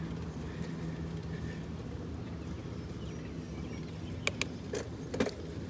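Steady low rumble of a bicycle being ridden, with a few sharp metallic clicks and a short rattle about four to five seconds in.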